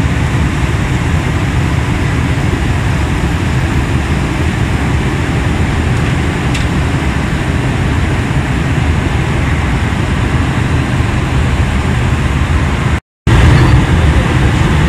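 Steady rushing cabin noise of a Boeing 737-800 in flight, engine and airflow noise with a few faint clicks. It cuts out for a moment near the end and comes back slightly louder.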